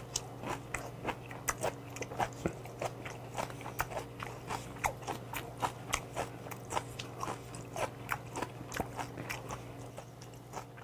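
A person chewing a mouthful of food close to the microphone: a steady run of wet chewing clicks and smacks, about three a second, thinning out near the end.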